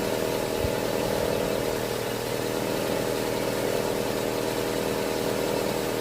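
Nissan Almera's HR15 1.5-litre four-cylinder petrol engine idling steadily.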